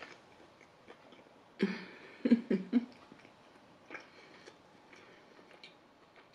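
Close-miked eating sounds of cold fried chicken: soft chewing and small mouth clicks as the meat is pulled off the bone, with a few short voice sounds from the eater a little under two seconds in.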